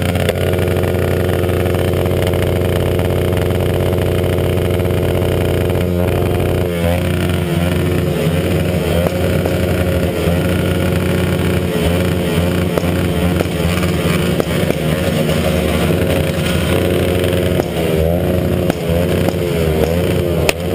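Motorcycle engine revved and held at steady high revs for about six seconds, then motorcycle engines revving up and down unevenly.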